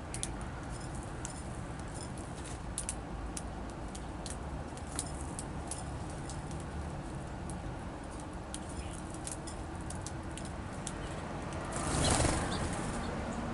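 Small songbirds feeding at a seed feeder: many light, irregular clicks and taps of beaks and feet on seed and feeder, over a steady low rumble. A brief rushing whoosh near the end is the loudest sound.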